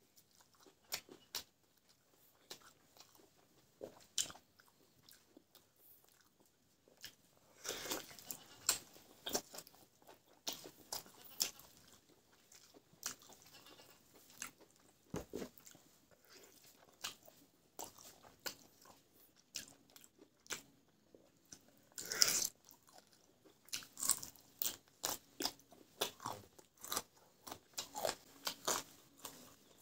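Close-miked mouth sounds of a person eating rice and roasted chicken leg by hand: wet chewing, biting and crunching in irregular short clicks and smacks, with louder bursts of crunching about 8 and 22 seconds in.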